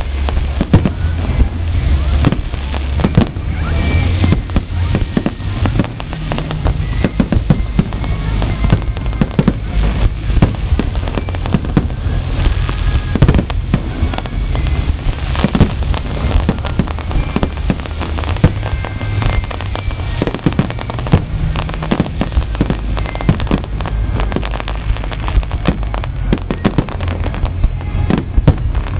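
Fireworks display: a dense, continuous barrage of bangs and crackling bursts in rapid succession, over a steady low rumble.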